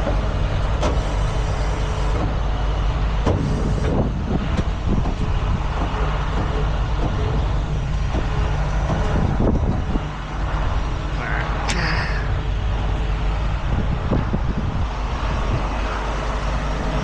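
Heavy truck engine running steadily, with scattered metal clanks and a short air hiss about twelve seconds in.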